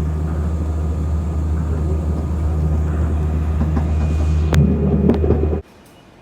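Steady low vehicle rumble with a few clicks, cutting off suddenly near the end.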